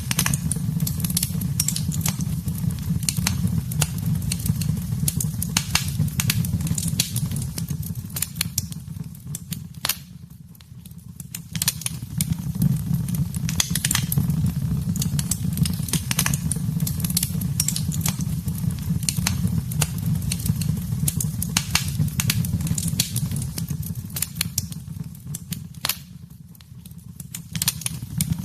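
Wood fire burning in a fireplace, crackling and popping steadily over a low rumble of flame. The crackling dies down briefly twice, about ten seconds in and again near the end, then picks up.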